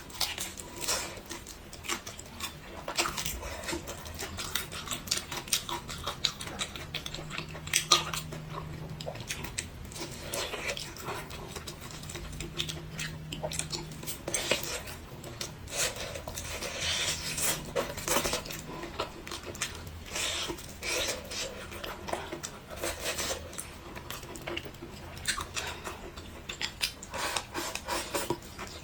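Cutlery clinking and scraping against dishes during a meal, many small irregular clicks and knocks.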